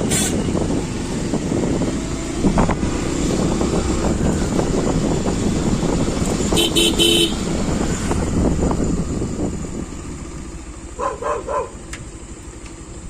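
Motorcycle engine running with road and wind noise while riding, and a vehicle horn tooting briefly about seven seconds in. The engine sound eases off near the end.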